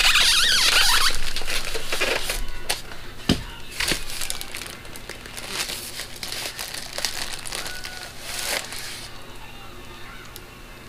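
Packaging crinkling and rustling as a parcel is unpacked by hand, with a few sharp clicks and knocks. It is loudest in the first couple of seconds, then goes on more softly.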